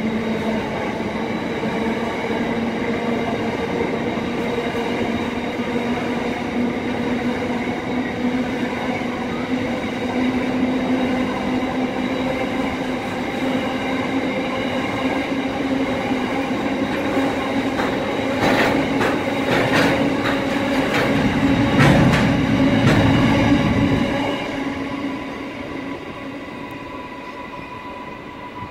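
A coal train's empty steel hopper wagons roll past close by: a steady rumble with held ringing tones from the wheels and rails. There is a run of clatter over rail joints and a loudest stretch about 18 to 24 seconds in, then the sound fades as the last wagon passes.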